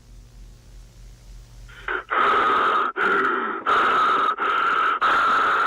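Loud, rapid heavy breathing with a lo-fi, distorted sound, starting about two seconds in, each breath following the last with only a short break.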